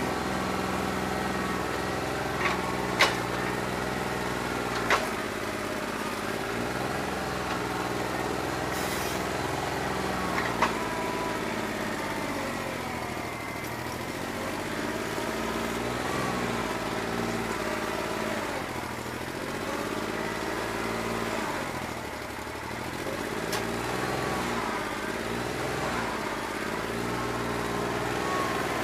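New Holland 1320 compact tractor's three-cylinder diesel running unevenly on a bad injector, firing on only about two and a half cylinders. Its speed sags and recovers several times in the second half, and a few sharp knocks sound in the first ten seconds or so.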